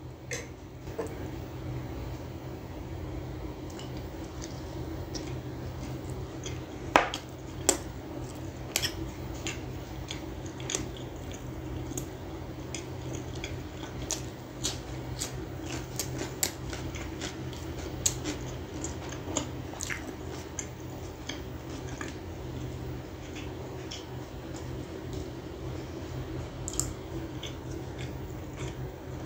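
Close-miked chewing and biting: wet, squishy mouth sounds and sharp clicks as naan soaked in chicken gravy, a raw cucumber slice and fried chicken are eaten. A steady low hum runs underneath, and the loudest clicks come about seven and eight seconds in.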